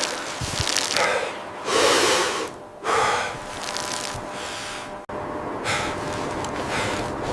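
A person breathing heavily: three loud, rushing breaths or gasps in the first few seconds, then a steady hiss.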